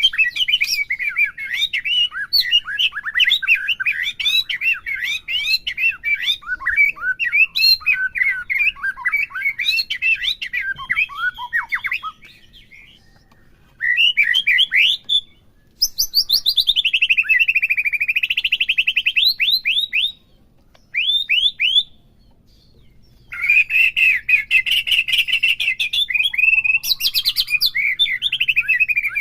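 White-rumped shama (murai batu) singing a fast, varied string of chirps and whistles, broken by a few short pauses, with a long swooping rapid trill about halfway through. This is the excited, aggressive song used to provoke other shamas into full song.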